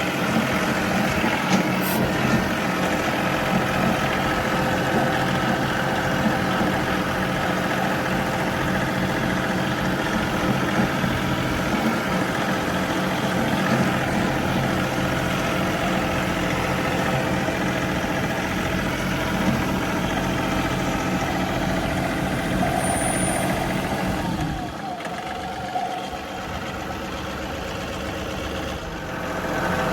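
John Deere 3038E compact tractor's three-cylinder diesel engine running steadily. Its note drops quieter about 25 seconds in and rises again near the end.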